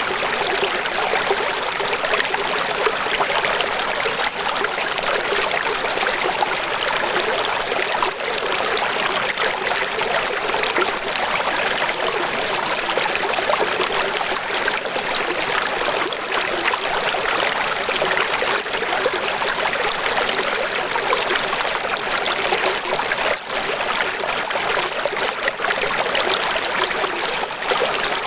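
Flowing water rushing and splashing steadily, without pauses or swells.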